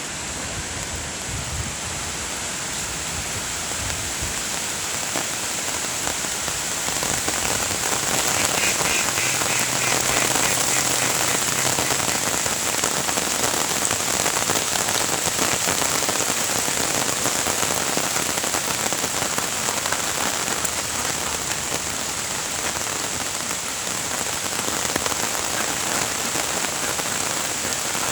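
Steady rain falling on the surface of a lake, an even hiss of drops hitting water that grows a little louder over the first several seconds.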